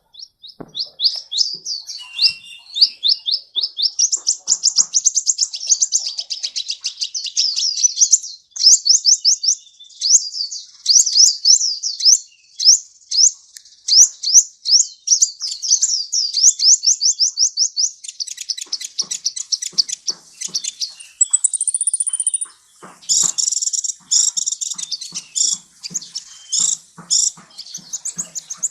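Sunbird ('kolibri') singing a fast, high-pitched song: a long run of quick rising chirps, about five a second. About 22 seconds in it holds one brief high whistle, then breaks into a denser burst of notes.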